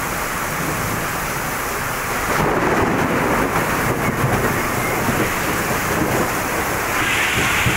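Heavy monsoon rain pouring onto a flooded street, a steady hiss that grows louder about two seconds in and again near the end.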